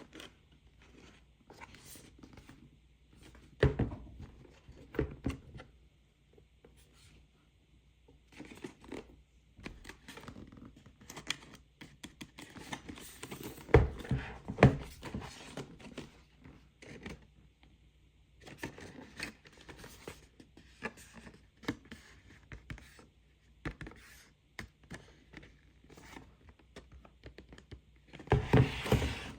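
Toy packaging being handled and opened by hand: scattered rustling, scratching and tearing, with a few sharp knocks, the loudest about 4 s in and twice around 14 s, and a longer rustle near the end.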